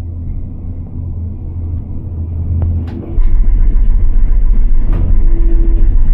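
Steady low rumble of a moving gondola cabin, growing sharply louder and deeper about three seconds in, with a couple of sharp clicks.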